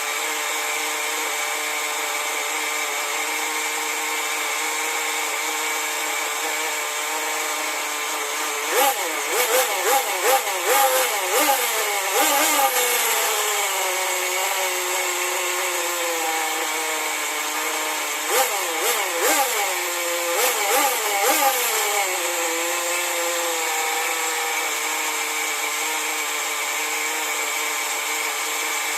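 Rebuilt .15 nitro engine of a 1/10 RC buggy running steadily at idle during its break-in run after the rebuild. It is given two spells of quick throttle blips, about a third of the way in and again past the middle, its pitch rising and falling sharply before settling back to idle.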